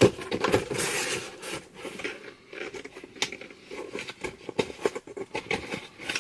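Rustling, rubbing and light tapping of box packaging and its contents being handled and searched through by hand, in a quick, irregular run of small clicks and scrapes.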